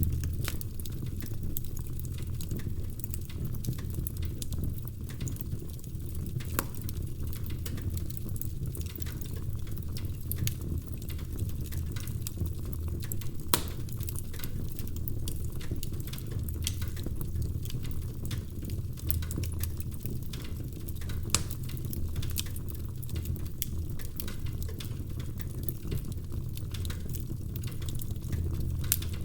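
Wood fire crackling in a fireplace: burning logs give a steady low rumble with scattered small crackles and a few sharper pops.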